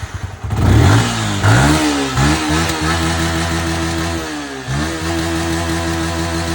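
Motorcycle engine revving through its exhaust: a few quick throttle blips, then held at a steady raised rev. It drops briefly about four and a half seconds in and comes back up.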